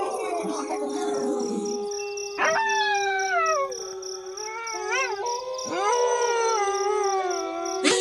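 Wolves howling in chorus: one long, steady howl is held throughout while other howls join, falling in pitch about two and a half seconds in, a short rising-and-falling call around five seconds, and another howl near six seconds.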